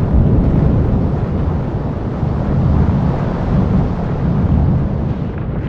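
Deep, continuous rumbling of a volcanic eruption, steady and loud, with no separate blasts.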